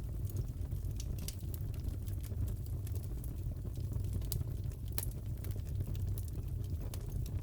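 Crackling fireplace: a steady low rumble of burning logs with irregular sharp pops and crackles, several a second.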